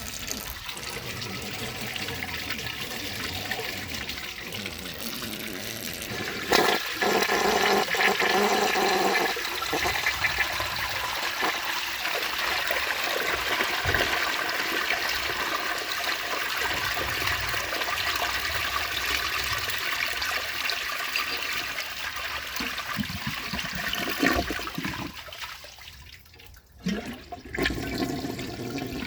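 1969 American Standard Cadet elongated toilet flushing and refilling: running water throughout, a louder surge of water about six seconds in, then a steady hiss of the tank refilling that drops off about four seconds before the end, followed by a few gurgles.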